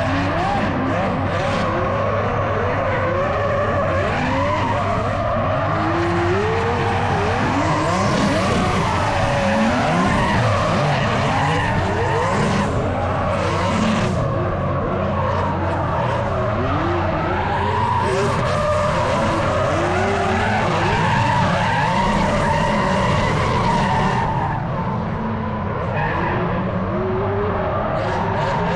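Drift cars at full throttle, engines revving up and down over and over, with tyres skidding and squealing.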